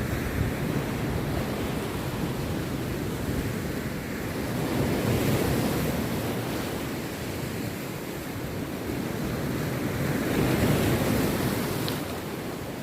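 Rough sea waves breaking and washing up the beach in a continuous surge, the surf swelling about five seconds in and again near ten seconds in.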